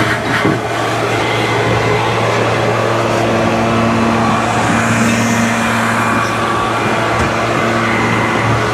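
A motor running steadily with a loud, even rush of air, like a shop vacuum or blower in use during cleanup.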